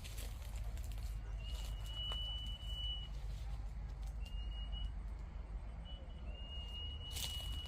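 Common iora whistling: two long, level whistles of a second and a half or more, with a short one between them. Under them runs a steady low rumble, with a few brief clicks.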